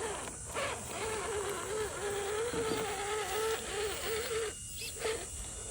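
Electric motor and gearing of an RC crawler truck whining at a steady pitch that wavers a little with the throttle, cutting out about four and a half seconds in and briefly coming back just after.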